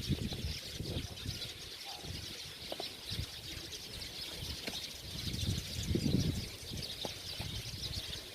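A dense chorus of many small birds chirping without pause, a constant high twittering. A softer low muffled sound rises and falls underneath, strongest about six seconds in.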